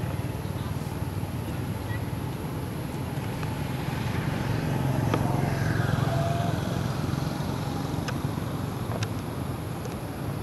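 A steady low motor rumble that swells a little around the middle, with a few sharp clicks.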